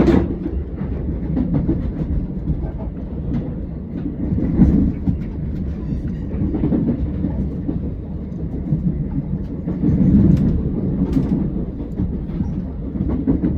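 Steam-hauled train running on a heritage railway: a steady low rumble that swells and eases every few seconds, with scattered short clicks.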